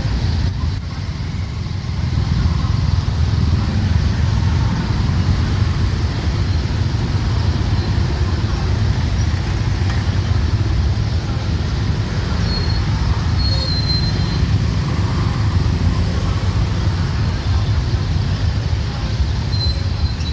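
Dense city street traffic: a steady rumble of motorbike, car and tuk-tuk engines. Brief high-pitched tones come about two-thirds of the way through and again near the end.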